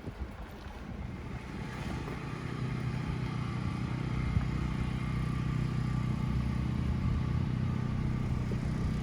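Motor vehicle engine running with a steady low hum that builds over the first few seconds and then holds even, as when pulling away and cruising.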